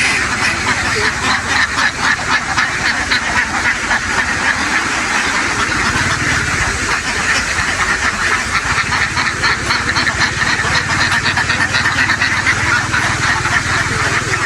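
A huge flock of domestic ducks quacking all at once, a dense, unbroken chatter of many birds. A low steady hum joins underneath from about six seconds in.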